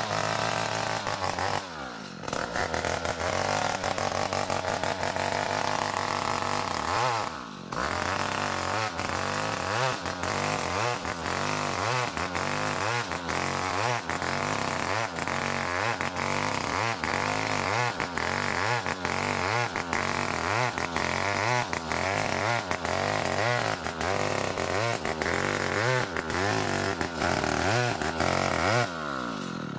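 Chainsaw ripping a small ulin (Borneo ironwood) log lengthwise into beams, the engine running at high revs with its pitch wavering rapidly under the load of the cut. The engine note dips briefly about two seconds in and again near eight seconds in.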